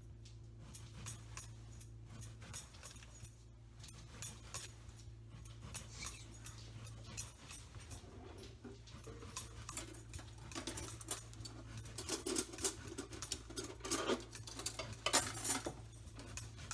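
Knife slicing crosswise into a zucchini on a cutting board: a run of small taps and clicks as the blade meets the board, busier in the second half, over a low steady hum.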